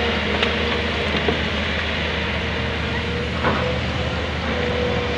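Hydraulic excavator's diesel engine running steadily, with a faint steady whine and a single knock about three and a half seconds in.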